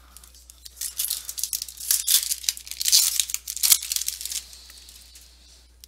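Foil trading-card pack wrapper being torn open and crinkled, a dense crackling that starts about a second in and stops a little past four seconds.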